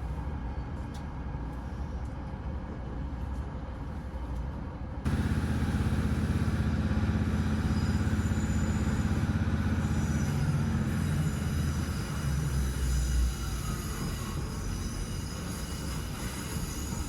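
Class 156 diesel multiple unit's underfloor diesel engine and running rumble heard from inside the train. About five seconds in it gets suddenly louder, with a steady engine note that holds for several seconds as the train pulls away, then eases back to a lower rumble.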